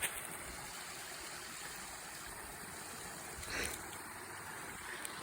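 Small creek running over rocks: a steady rush of water, with one brief louder moment a little past the middle.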